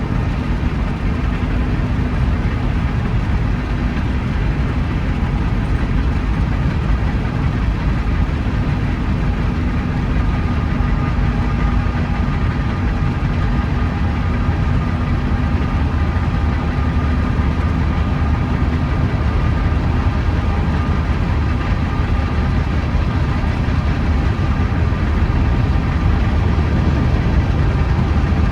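Empty coal train rolling past with a steady, deep rumble and faint steady whining tones over it, growing a little louder near the end.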